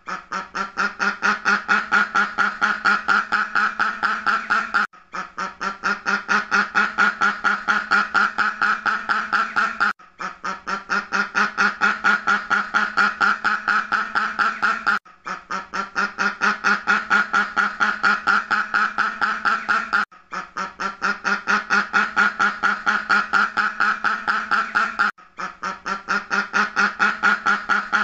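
Duck quacking in a fast, unbroken run of about eight quacks a second. The run stops briefly every five seconds and starts again, as a repeating loop.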